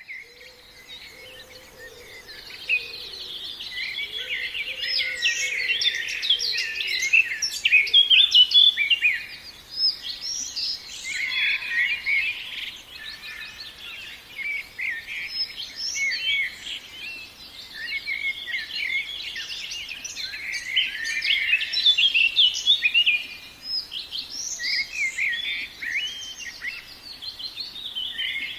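Many small birds chirping at once: a dense, overlapping chorus of quick high chirps that swells and eases in waves.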